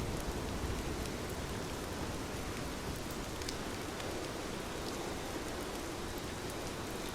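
Heavy rain falling steadily: a dense, even hiss with scattered faint drop ticks.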